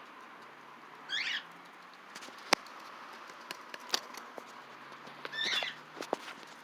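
A small pet parrot chirps twice, two short warbling calls about four seconds apart. Scattered sharp clicks and taps come between them, the loudest about two and a half seconds in.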